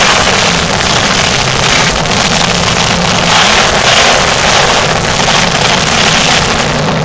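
Monster truck engine running loud and hard, with a dense, steady wash of noise and gentle swells in level.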